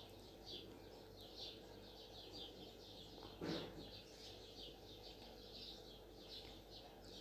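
Faint, steady run of short high bird chirps, about three a second, with one soft bump about three and a half seconds in.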